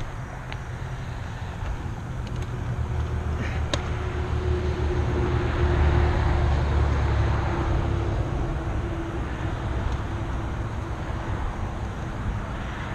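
A motor vehicle passing close by: a low rumble with a steady hum that swells to its loudest about halfway through, then fades away.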